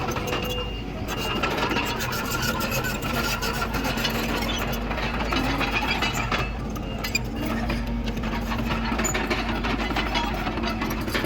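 Komatsu D31PX crawler bulldozer working: its diesel engine runs steadily under a continuous fast rattling clatter.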